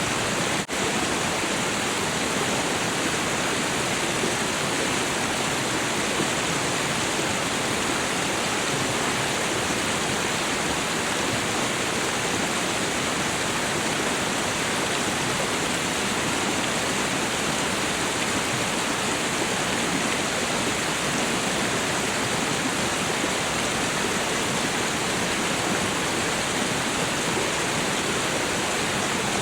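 Waterfall: a steady, unbroken rush of falling water. There is a brief dip with a faint click less than a second in.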